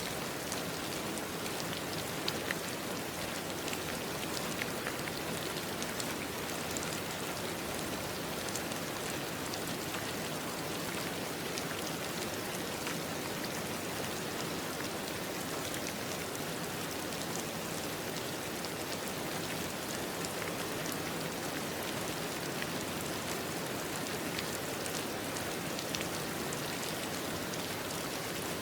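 Steady rain falling, an even hiss with scattered small drop ticks on top.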